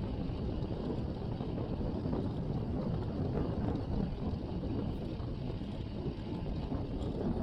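Steady wind rushing over a chest-mounted action camera's microphone while riding a road bike, mixed with road and tyre noise.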